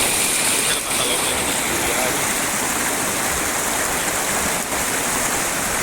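Waterfall, falling water rushing loud and steady.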